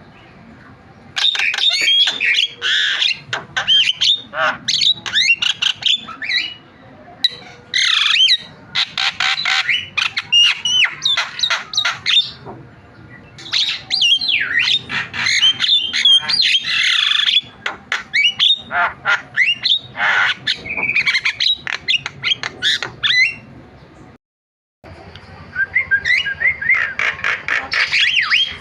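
Javan myna (jalak kebo) singing a busy, chattering song of harsh squawks and fast sliding chirps and whistles, delivered in bouts with short pauses between them.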